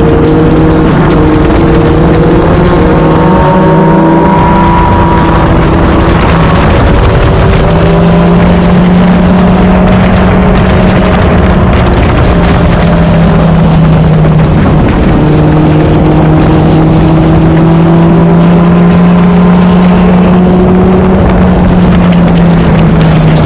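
Inline-four sport motorcycle engine running steadily at cruising speed under a constant rush of noise, its pitch shifting a few times as the throttle and gears change.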